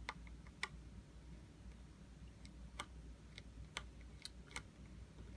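Faint, sharp, irregular clicks of a small precision screwdriver on the tiny screws and metal parts inside an iPhone 6 while its logic board screws are backed out, about eight clicks spread over a few seconds.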